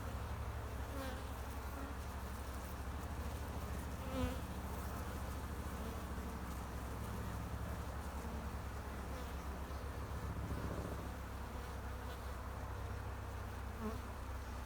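Honey bee swarm buzzing, a steady dense drone that briefly swells louder about four seconds in.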